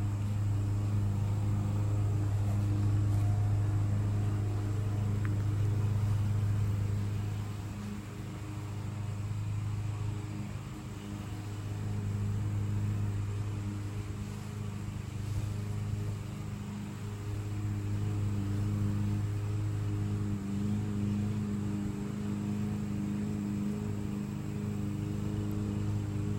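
Steady low mechanical or electrical hum, swelling and easing slightly in loudness.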